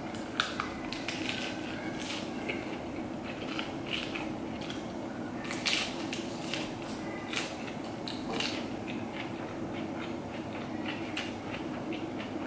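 Close-up crunching and chewing of a lettuce wrap filled with minced meat: irregular crisp crunches of fresh lettuce leaf being bitten and chewed, the loudest a little before six seconds in and again at about eight and a half.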